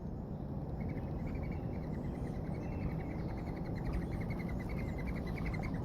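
A rapid, even trill of high chirps, about ten a second, from a small animal, starting about a second in and stopping near the end, over a steady low rumble.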